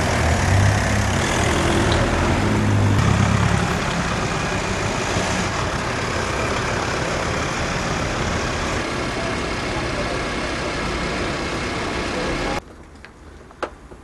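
Car engine running close by, a loud, noisy rumble that is heaviest in the first few seconds. It cuts off abruptly near the end.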